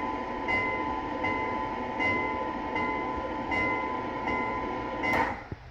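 Recorded train running sound played by an interactive museum display after its throttle is opened: a steady sound with a regular beat about every three-quarters of a second, cutting off suddenly near the end.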